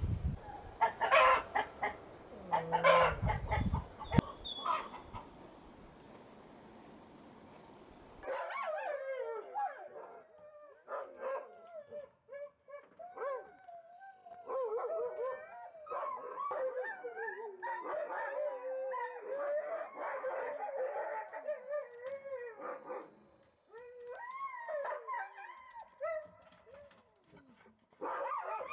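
Several Alaskan malamutes howling together in long, wavering, overlapping calls, set off by a fox prowling nearby. Before them, for several seconds, outdoor noise with wind and a few sharp rustling knocks.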